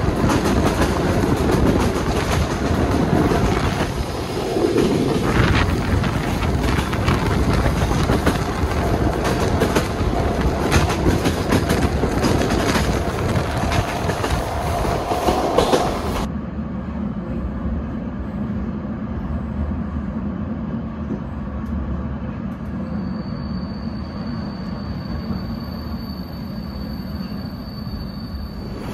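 Train running on the rails. About halfway through, the sound drops suddenly to a quieter, duller rumble, and a faint, steady high whine comes in near the end.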